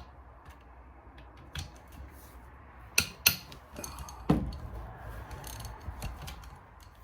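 A wrench working the cylinder head bolts of a Suzuki LTR450 engine: ratchet-like clicking and scattered sharp metal clinks. The loudest are two close together about three seconds in, then a clank with a short ringing tail.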